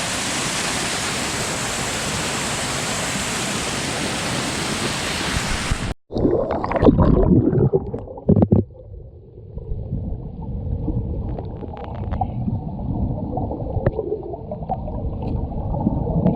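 Rushing water of a waterfall close to the microphone, a loud steady hiss. About six seconds in it cuts off abruptly and gives way to a muffled, lower water sound with a few knocks and splashes.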